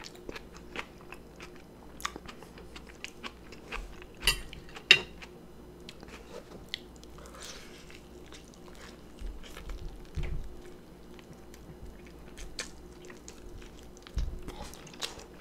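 Close-miked chewing and biting of food, with scattered sharp crunchy clicks, the loudest about four and five seconds in.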